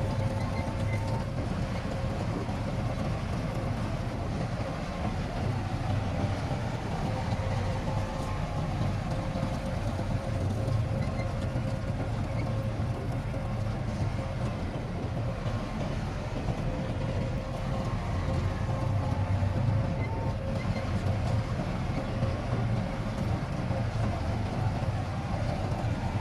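Heavy diesel earthmoving machinery running steadily: a continuous low engine rumble that rises and falls slightly, with a faint whine coming and going.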